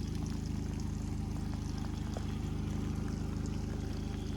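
An engine running steadily with a low, fast, even pulse, with scattered light ticks over it.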